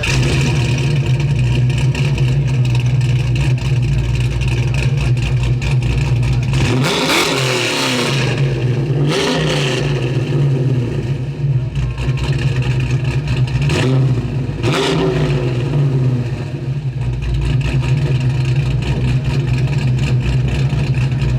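1957 Chevy 210 resto-mod's fuel-injected engine idling steadily, blipped up and back down in two pairs of quick revs, about a third of the way in and again past the middle.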